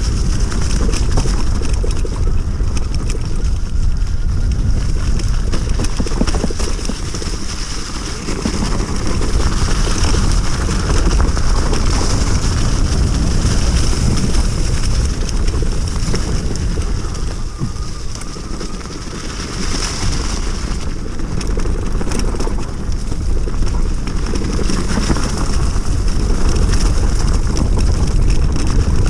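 An electric enduro bike with a 3000 W hub motor being ridden: heavy wind buffeting on the microphone, with tyre and frame clatter and a steady high hiss over the top. The loudness eases briefly a couple of times.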